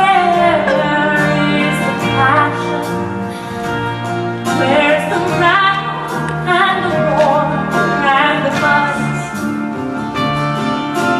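A woman singing a slow song with instrumental accompaniment, holding long notes with vibrato.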